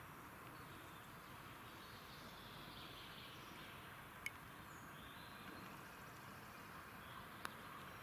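Faint outdoor ambience with distant birds singing, broken by two short sharp ticks, about four seconds in and near the end.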